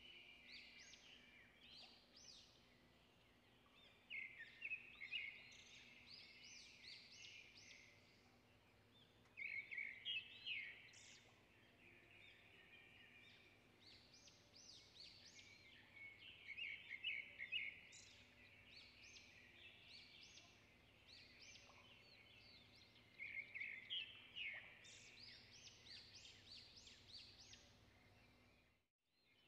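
Birds chirping: bursts of rapid high-pitched chirps about every five seconds, over faint steady outdoor background noise.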